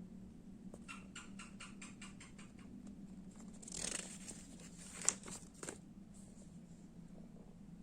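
Faint handling noises over a low steady hum: a quick run of small clicks, then a brief rustle and two sharp clicks.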